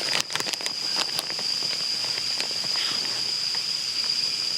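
Insects droning steadily at one high pitch, with a few light clicks and knocks in the first second or so.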